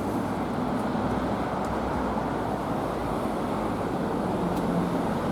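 Steady city street traffic noise, a continuous rumble of passing vehicles with no distinct events.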